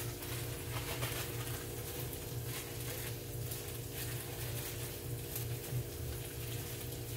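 Oil sizzling as breaded zucchini fries fry in a pan, a fine steady crackle, over a steady low electrical hum.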